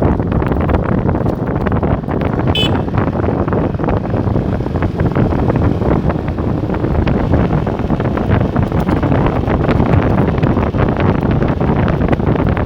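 Wind buffeting the microphone of a moving motorcycle, a steady loud rush with the small Motorstar Star X 125 ridden underneath it. A brief high-pitched chirp cuts through about two and a half seconds in.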